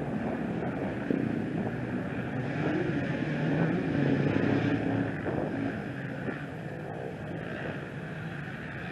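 Off-road motorcycle engine running and revving, swelling to its loudest about four seconds in, then fading away.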